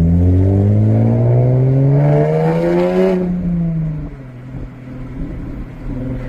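Jaguar F-Type's 340 hp supercharged V6 through a valveless stainless-steel exhaust, accelerating hard with a steadily rising note for about three seconds. The revs then fall sharply as the throttle closes, and the engine settles to a lower, steady note near the end.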